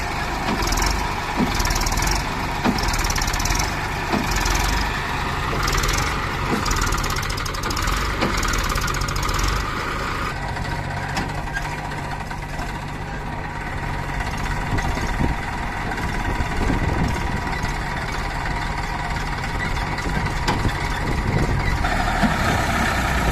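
Heavy diesel machinery running steadily, as the backhoe loader and the stuck tractor work in the mud. For about the first ten seconds a regular hiss repeats a little more than once a second over the engine rumble.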